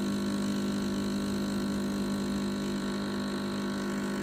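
Espresso machine pump humming steadily while a shot extracts.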